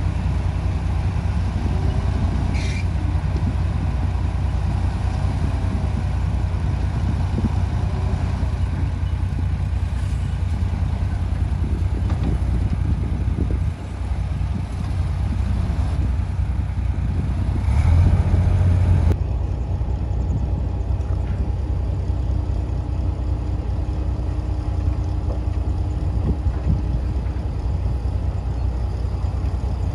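Heavy diesel engine of earthmoving machinery running steadily under load, with a louder surge about eighteen seconds in.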